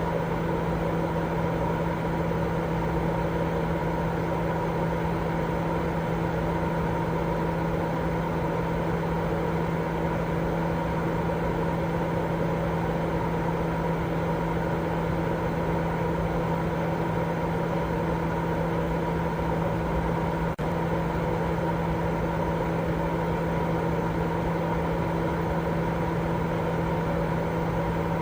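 Continuous white noise for baby sleep: an even hiss over a constant low hum, unchanging in level, with one brief dip and click about twenty seconds in.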